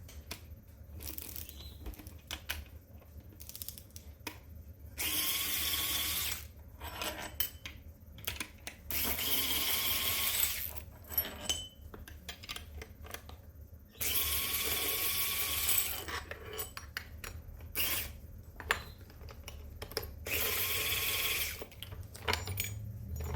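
Power drill spinning out the four through-bolts of a ball valve being disassembled: four steady runs of about one and a half to two seconds each, with light metal clicks of parts being handled in between.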